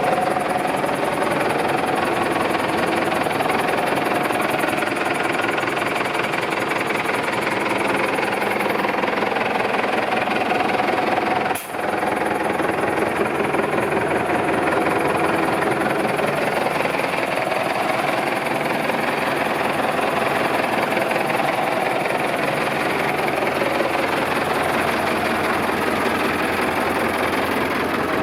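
Zetor 7540 tractor's diesel engine running steadily, with a momentary break about twelve seconds in.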